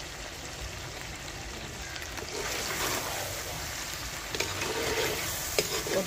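Chicken salt curry (uppu kari) cooking in a pan with oil: a steady sizzling hiss that grows louder about two seconds in, with a few sharp clinks near the end.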